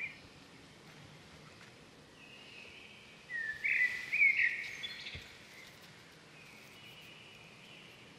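Wild birds calling over a steady outdoor hiss: a few clear whistled notes, loudest in a run of phrases about three to five seconds in, with fainter ones near the end.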